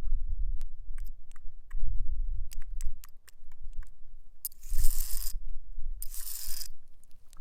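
Metal nails worn on the fingertips tapping on a rock, a quick uneven run of light clicks, then two scratches across the stone of about half a second each.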